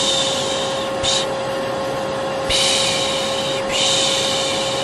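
Vacuum cleaner running with a steady hum, overlaid by a person's repeated long 'shhh' shushing, each shush about a second long. There are three long shushes and a short one, with a pause of about a second in the middle; this is the shushing used to lull a baby to sleep.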